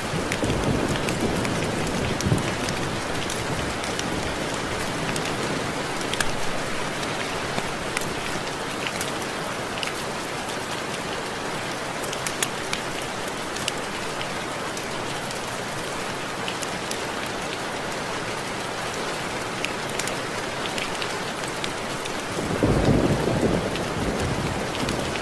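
Steady rain with many sharp raindrop ticks on window glass. A low rumble of distant thunder swells near the end.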